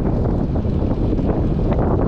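Strong wind buffeting the microphone of a bicycle-mounted GoPro while riding: a loud, steady low rush with brief crackles.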